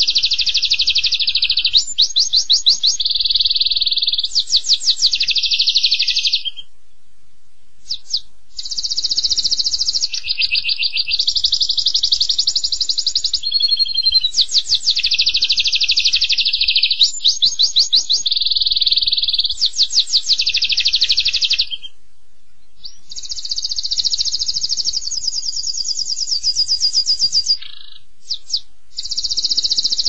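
A pet bird singing long phrases of rapid, high trills, each trill changing to a new note every second or two, with a few short pauses between phrases.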